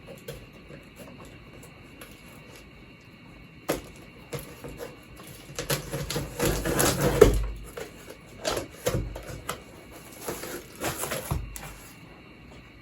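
Cardboard box being handled and opened by hand: a single sharp click, then bursts of scraping and rustling cardboard, loudest a little past the middle.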